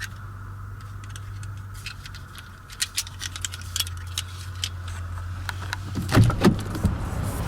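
Scattered clicks and taps of the car's plastic interior parts being handled, over a steady low hum from the running car. A louder cluster of knocks comes a little after six seconds in.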